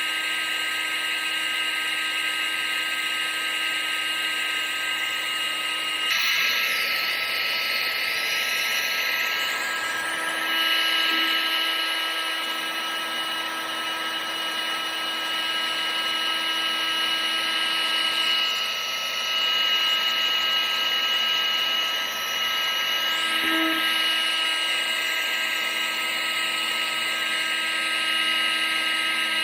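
A household appliance's electric motor and fan running continuously: a steady high whine made of several tones over a rush of air. The tones shift slightly a few times.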